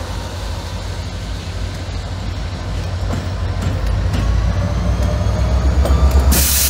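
Diesel locomotive leading a freight train as it approaches and passes, its engine rumble growing steadily louder. A brief loud hiss comes near the end.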